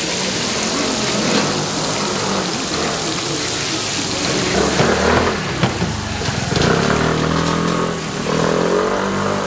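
Steady sizzle of hotteok frying in margarine on a street-stall griddle, with a motor vehicle's engine running past over the second half.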